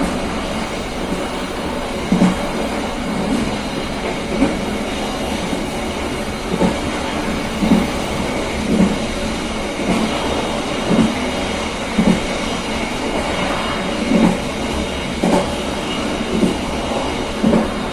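KA Serayu passenger train running along the line, its wheels clacking over rail joints about once a second above a steady rolling rumble.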